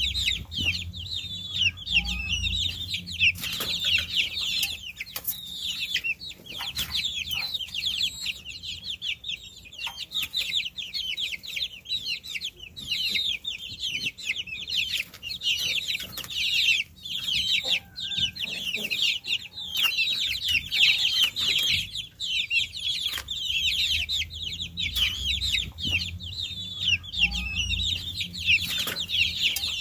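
A brood of baby chicks peeping continuously: many short, high-pitched chirps overlapping without a break, with a faint low rumble at times.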